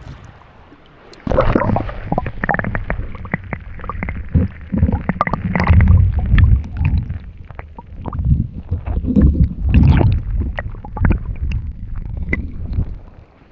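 Camera microphone dipped into the sea: muffled water sloshing and gurgling in uneven low rumbles, with many sharp clicks and pops, starting about a second in.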